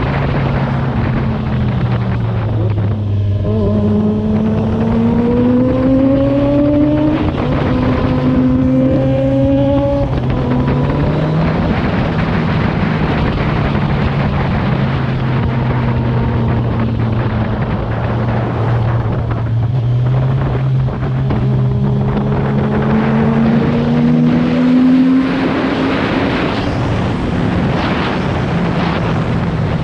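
Kawasaki Z1000R inline-four engine on its stock exhaust, under way. It climbs in pitch through two gears with a shift between, then runs at a steady cruise, and climbs once more a little past the middle, with wind rushing over the microphone throughout.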